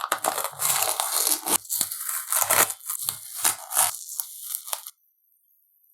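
Masking tape being peeled off a freshly painted steel wrench: a run of ripping and crinkling pulls that stops abruptly about five seconds in.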